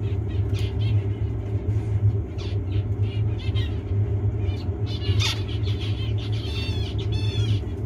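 Zebra finches calling with short, high chirps, then near the end a run of buzzy, stacked song notes, over a steady low hum.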